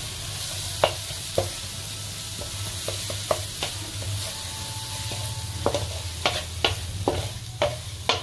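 Minced ginger and garlic sizzling in butter in a nonstick pan while being sautéed until fragrant. A wooden spatula stirs and knocks against the pan, with the knocks coming more often in the second half.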